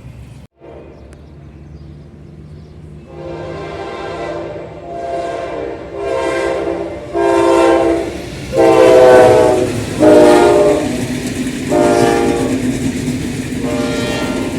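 General Electric diesel locomotive's air horn sounding about eight short blasts in quick succession, a chord of several tones, growing louder as the train approaches, over the rumble of the train.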